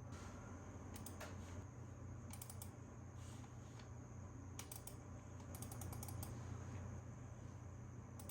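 Computer keyboard typing in short bursts of quick keystrokes with pauses between, over a faint steady low hum.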